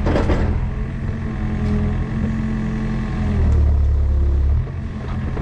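Mini excavator engine running steadily, pulling harder for about a second past the middle, with a short crash of noise at the start.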